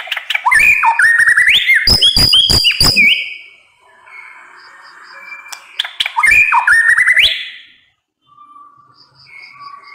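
White-rumped shama singing in two loud bursts of fast whistled notes, quick rising glides and sharp clicks. The first burst lasts about three seconds and the second comes about six seconds in, with softer warbling between and after.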